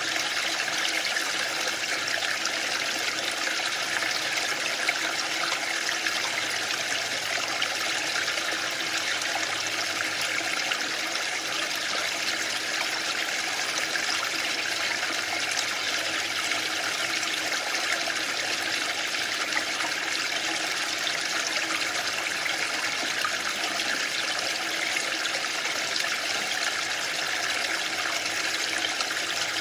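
Waterfall rushing: a steady, unbroken hiss of falling water with no surges or pauses.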